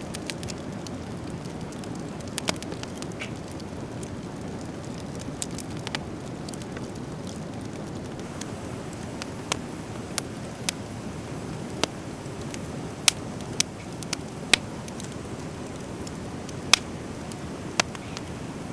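Driftwood fire crackling, with scattered sharp pops over a steady low rush, the pops coming more often in the second half.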